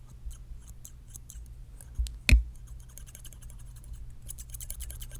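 Close-up scissors snipping in quick, irregular clicks. There is one louder bump a little over two seconds in.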